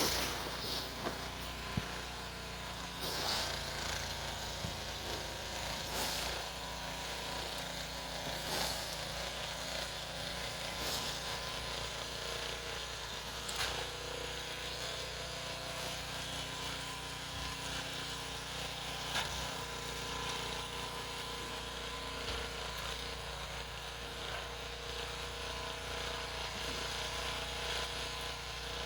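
Snow shovel strokes scraping and lifting packed snow every two to three seconds, over a steady engine-like hum.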